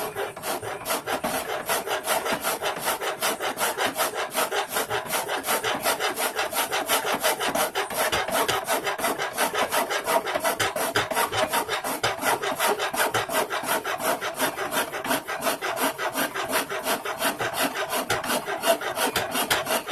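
Hand file rasping on the steel of a knife blade in rapid, even back-and-forth strokes, about four a second, shaping the blade.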